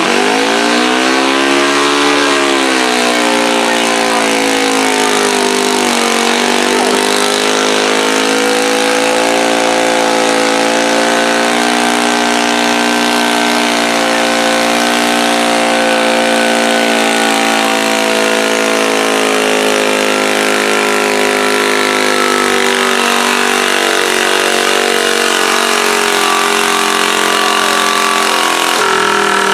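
Pulling garden tractor's engine running hard under load through a pull. The pitch rises, dips, then climbs and holds high before slowly falling away near the end.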